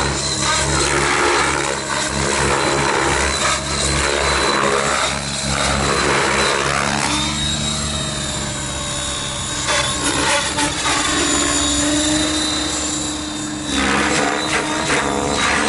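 T-Rex 700 radio-controlled helicopter in flight: a steady high motor whine over the whoosh of the rotor blades, which swells and fades every second or two with sweeping changes in pitch.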